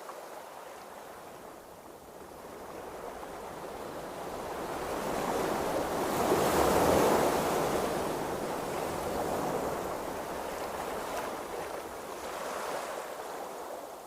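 Ocean waves washing and rushing, with a little wind. The wash swells to a peak about halfway through, falls back, and rises gently again near the end.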